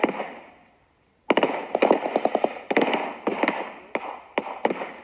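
Blank gunfire from WW2-era weapons: scattered single shots, then a rapid burst of automatic fire about a second in, followed by a few more separate shots, each with a short echo.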